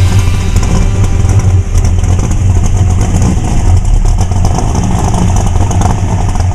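1968 Dodge Charger's 383 big-block V8 running loud and steady, a deep rumble.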